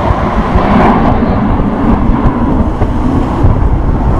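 Loud, steady low rumble of Blue Angels F/A-18 Hornet jets flying past overhead.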